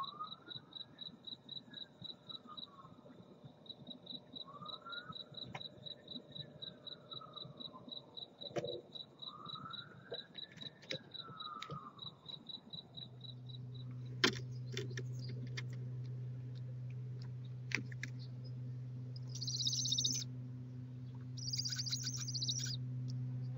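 A cricket chirping steadily, with a faint rising-and-falling call that repeats every few seconds. About halfway through, a low electrical hum comes in with scattered clicks. Near the end come two harsh hissing screeches from barn owls, each about a second long.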